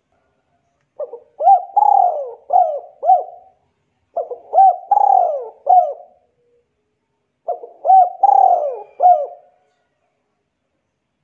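A bird calling: three similar phrases, each a quick run of rising-and-falling notes, repeated about every three seconds.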